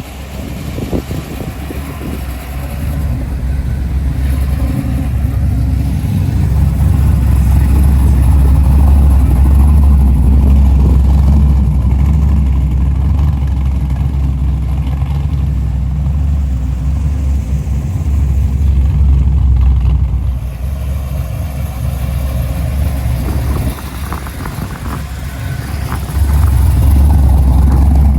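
Deep, loud engine rumble of a muscle car running close by, swelling and easing off, then rising again near the end.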